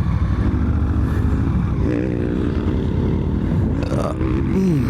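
Honda Africa Twin's parallel-twin engine running steadily with the bike at a standstill or barely moving.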